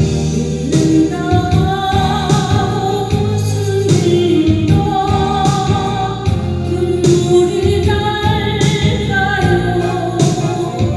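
A woman sings a slow Korean ballad over a keyboard backing track, holding long notes with a gentle wavering pitch.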